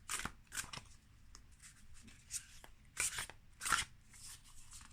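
Tarot cards being shuffled by hand: a handful of short, soft papery swishes and flicks, the loudest about three seconds in.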